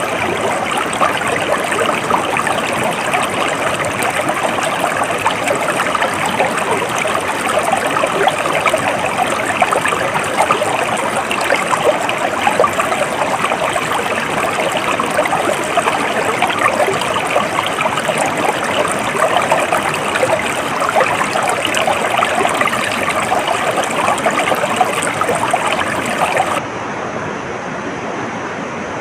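Flowing stream water, a steady dense rush with fine splashing. Near the end it cuts abruptly to a softer, duller water sound.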